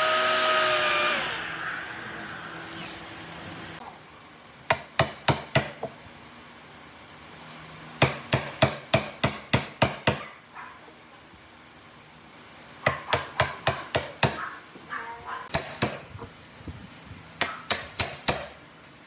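A power tool's motor running and then winding down, its pitch falling about a second in. This is followed by runs of quick, sharp hammer blows at about three to four a second, in four bursts separated by short pauses.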